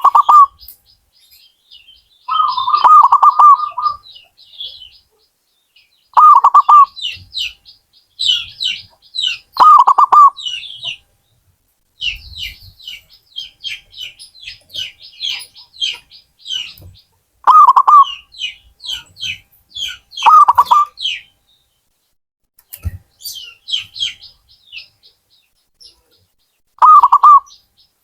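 Zebra dove (perkutut) cooing: short, loud, rolling coo phrases repeated about seven times, a few seconds apart. Fainter, higher chirps of small birds run in between.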